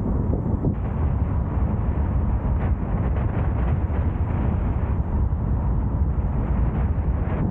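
A car's steady driving noise: a dense, low rumble of tyres on the road and air rushing past, with no distinct events.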